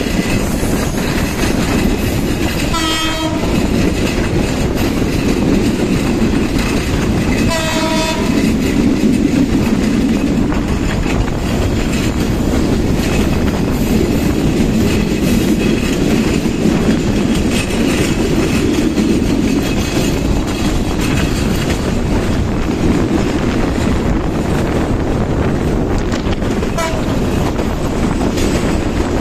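Passenger train running at speed, its wheels clattering on the rails, heard from a motorcycle riding alongside it. Two short horn blasts sound about three and eight seconds in.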